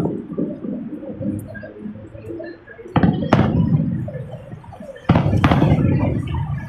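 Two fireworks explosions, about three and five seconds in, each a sudden boom with a low rumbling echo that fades over a second or so; a sharp crack follows shortly after the first.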